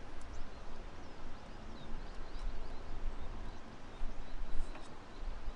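Steady rush of a flowing river with small birds chirping in short high notes over it, and a low uneven rumble underneath.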